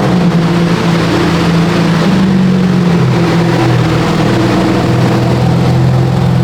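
BMW G80 M3 CS's twin-turbo inline-six running loudly as the car drives, its pitch shifting a few times with throttle and speed.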